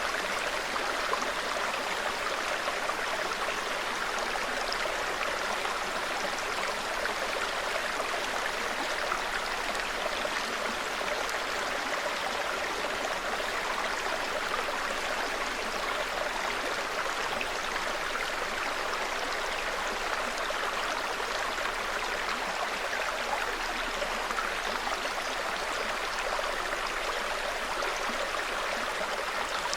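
Small forest stream babbling steadily over stones, an even rush of water with no breaks.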